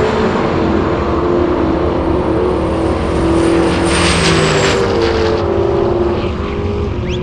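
Two muscle cars' engines running hard at full throttle through a drag race, the sound receding as the cars pull away down the strip.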